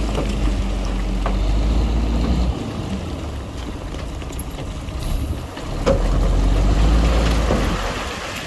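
Heavy diesel engine of a bulldozer running, a low steady drone that drops back about two and a half seconds in and rises again about six seconds in.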